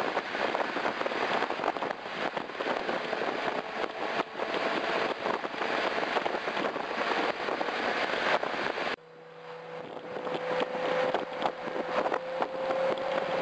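BMW M6's V10 engine heard through a Meisterschaft GT aftermarket exhaust on the road: a loud, rough exhaust sound thick with rapid crackling, then after a sudden drop about two-thirds through a steadier note that rises slowly in pitch as the car gathers speed.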